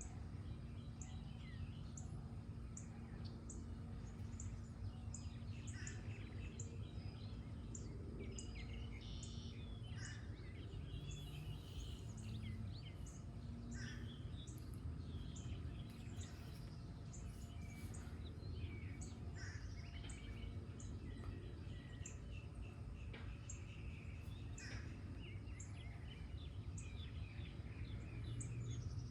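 Several birds singing with varied chirps and whistles. A short, high note repeats a little more than once a second, over a steady low background rumble.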